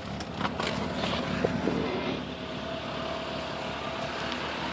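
Mercedes-Benz 190E Cosworth 16-valve four-cylinder engine idling steadily while still cold, shortly after a cold start. A few light clicks come in the first second and a half.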